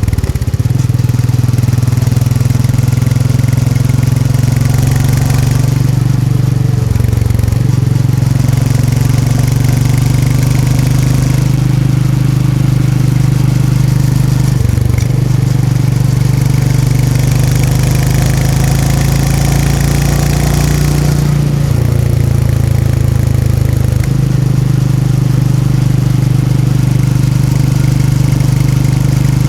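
Royal Enfield Meteor 350's 349 cc single-cylinder engine and exhaust running steadily under way, the note dropping briefly about seven, fifteen and twenty-two seconds in.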